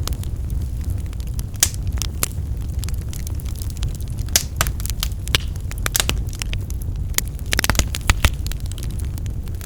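Wood fire burning in a fireplace: a steady low rush of flames with frequent sharp crackles and pops from the firewood, and a quick flurry of them about three quarters of the way through.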